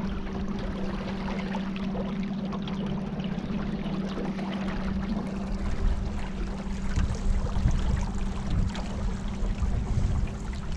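A boat's motor humming steadily, loudest in the first half, under water splashing and wind noise on the microphone that grow busier later on.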